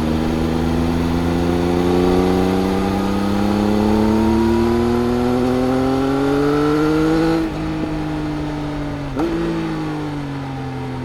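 Triumph Speed Triple RS inline-three engine through its Arrow exhaust, pulling hard with the pitch rising for about seven seconds. The throttle then closes and the pitch falls slowly, with one short blip a little before the end.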